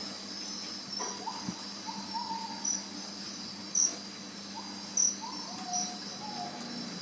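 Steady high chorus of tropical insects chirring, with a few louder chirps. Short pitched calls at a lower pitch come in about a second in and again after four seconds, over a faint low steady hum.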